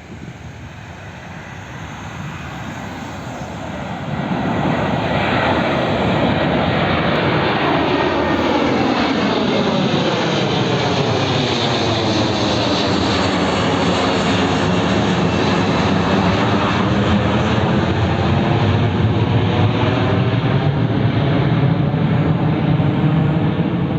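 Twin jet engines of an Airbus A330-300 airliner at takeoff power, growing louder over the first four seconds as the aircraft comes past, then a loud, steady jet noise with a slowly sweeping pitch as it passes and climbs away.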